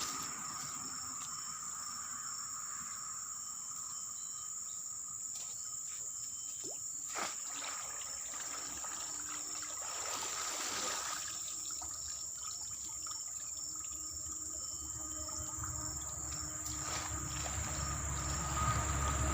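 Insects droning steadily in a swamp, a continuous high-pitched buzz on two steady tones, with a few light clicks and a short rush of noise about ten seconds in.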